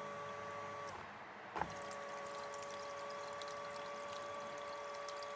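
Motorcycle electric fuel pump running on the bench with a steady whine, running smoothly now that it is freed of crystallised old fuel. It cuts out about a second in and starts again with a click shortly after.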